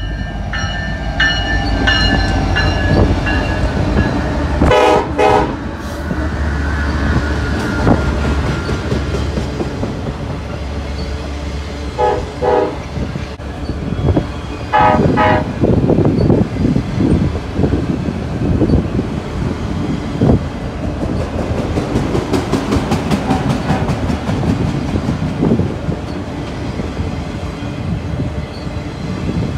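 A diesel freight train rolling past close by: the locomotive horn sounds several short blasts, about 5, 12 and 15 seconds in, over a steady heavy rumble. From about halfway the cars go by with rapid, continuous wheel clatter on the rail joints.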